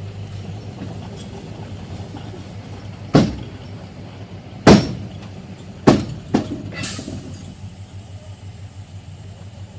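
Heavy diesel engine idling steadily, with five loud bangs between about three and seven seconds in, then a high hiss that continues.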